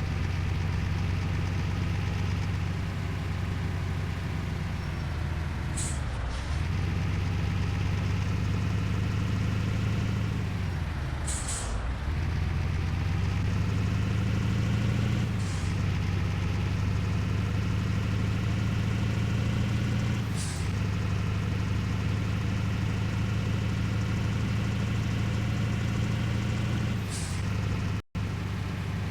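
A vehicle engine running steadily. Its pitch dips and climbs back about five times, and each dip comes with a short hiss.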